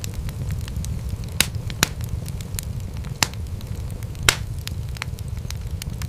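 Wood fire crackling in a fireplace: a steady low rumble of flames with many small, sharp crackles and a few louder pops, the loudest about four seconds in.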